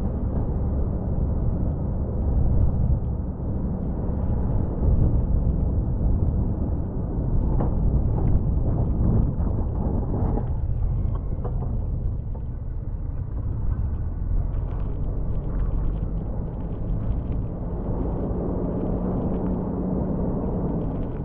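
Snowplow truck's engine running under load with a steady low rumble, with a few scattered knocks and clatters about a third of the way in.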